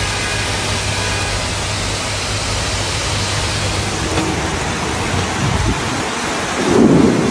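Torrential rain and rushing floodwater: a loud, steady hiss of water, with a louder, deeper rush near the end.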